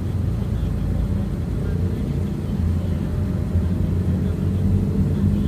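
A road vehicle under way: a steady low engine and road rumble, with a faint tone that rises slowly in pitch over a few seconds as it speeds up.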